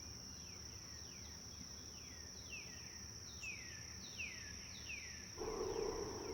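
Faint savannah ambience: a steady high insect drone with a bird repeating short falling whistled calls about once or twice a second. A steadier, lower noise joins near the end.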